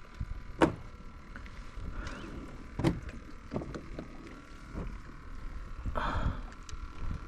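A few sharp knocks and clunks of fishing gear against a plastic kayak hull, one every second or two, with a longer scraping bump near the end, over a steady low rumble of wind and water.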